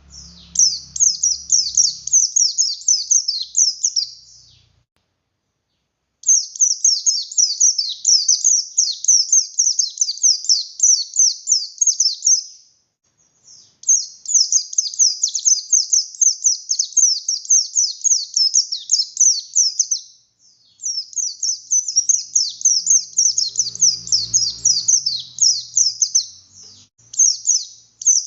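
Buxtoni white-eye (pleci) singing in long, fast, chattering runs of high notes, broken by short pauses about five, thirteen and twenty seconds in.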